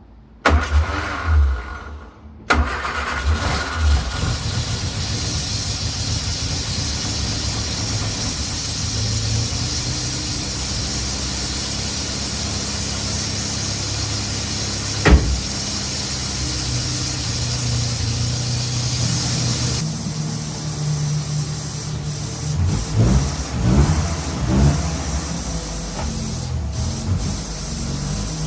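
Austin A35's engine cranked on the starter, catching after about two seconds and then idling steadily. There is a single sharp knock about halfway through, and a few blips of the throttle near the end.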